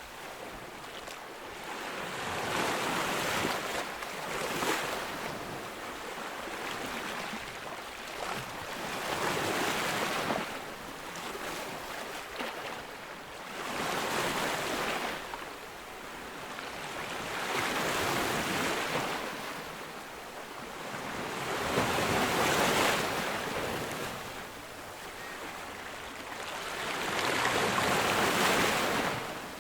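Ocean waves breaking on a beach, each one a rushing wash that swells and fades about every four to five seconds, the loudest two near the end.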